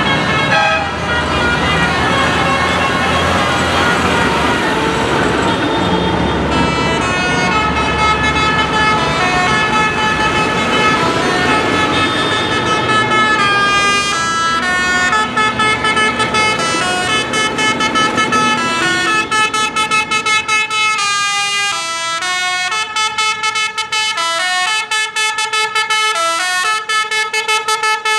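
Tractor engines rumbling, then a musical multi-tone horn playing a tune in short stepped notes that change pitch. The notes become short and separate in the second half as the engine noise fades.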